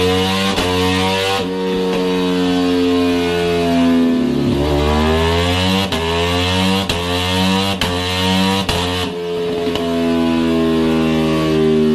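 Motorcycle engine running hard, its pitch dropping about four seconds in and then climbing again as it revs back up.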